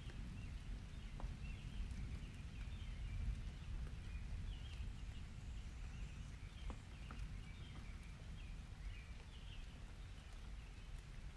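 Nature ambience recording: small birds chirping over a steady low rumble, with a few faint clicks.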